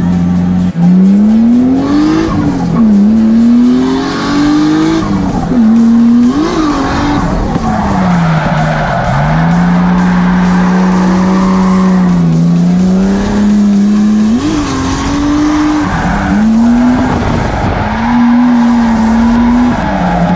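Nissan 180SX drift car's engine, heard from inside the cabin, revving up and down repeatedly through a drift, with a few sharp drops in pitch as the throttle is lifted or a gear is changed. Tyres squeal under the engine as the car slides.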